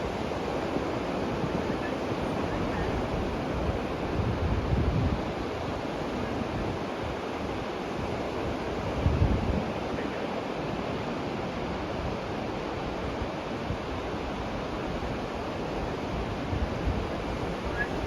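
Ocean surf washing steadily on the beach, with wind buffeting the microphone in gusts, heaviest twice, at about four seconds and nine seconds in.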